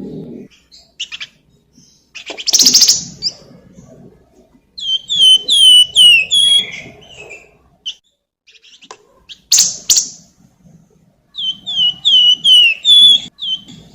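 Flamboyan songbird singing: two runs of quick, clear down-slurred whistles, about five notes a second, and two short harsh rasping calls in between.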